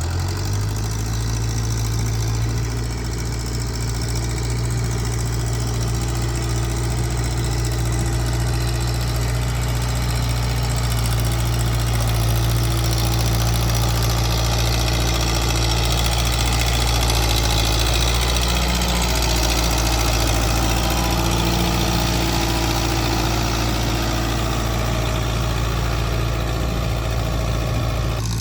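Renault 681.4 S tractor's MWM diesel engine running steadily at an even speed, a deep, constant drone with no revving.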